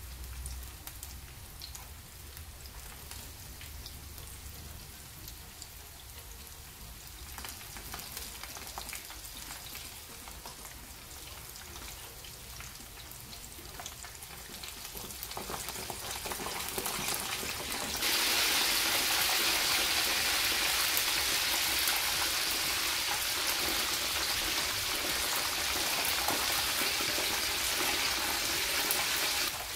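Breaded chicken mince balls deep-frying in a pan of hot oil: a steady sizzle with faint crackling that builds, then jumps to a much louder hiss about two-thirds of the way through.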